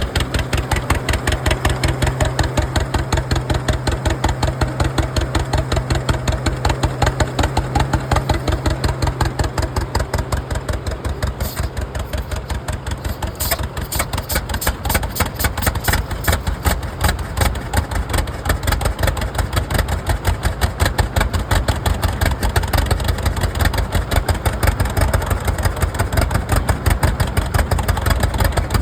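Antique farm tractor engines running with an even, pulsing exhaust beat. A steady low hum underneath stops about ten seconds in.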